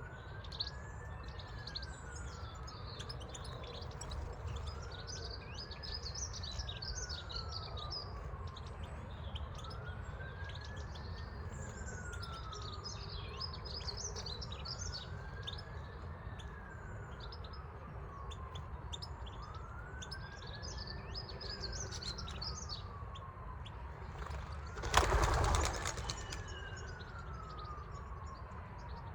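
Small birds chirping and twittering over an emergency-vehicle siren in the distance, wailing slowly up and down in about one rise and fall every five seconds. A short, loud burst of noise comes near the end.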